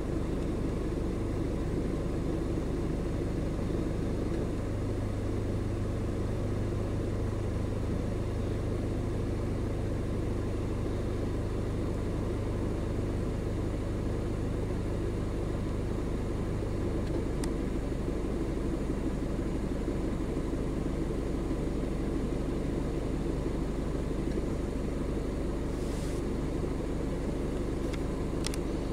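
Truck engine running steadily: an even, low hum with a deeper drone underneath that drops away a little past halfway through.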